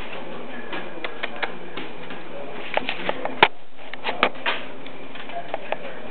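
Dogs' claws clicking and tapping irregularly on a hard floor as the malamutes move about, with one sharper knock about three and a half seconds in.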